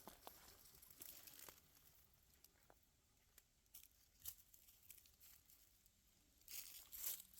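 Faint footsteps crackling through dry leaves and twigs on a forest trail, scattered crackles with a louder rustling stretch near the end.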